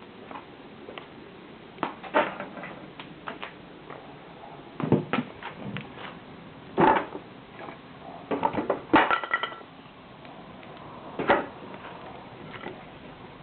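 Scrap-wood bonfire crackling, with irregular sharp pops and knocks from the burning wood over a low steady hiss; one crack about two-thirds through carries a brief ringing note.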